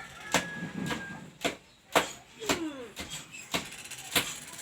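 A hand tapping on a tabletop: a series of separate taps, roughly two a second. The taps are light ones, which she calls so soft.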